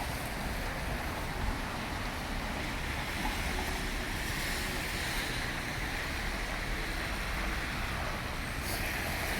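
Wind buffeting the microphone in a snowstorm, a steady rushing noise, with the hiss of street traffic underneath.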